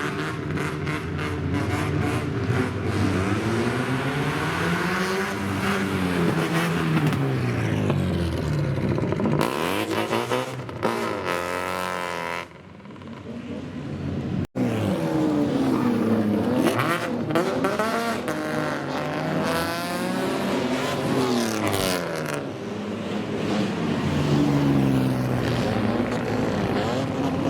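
Loud car engines with modified exhausts revving again and again, the pitch rising and falling with each blip of the throttle, typical of kaido racers and old cars. The recording cuts to a different car about halfway through.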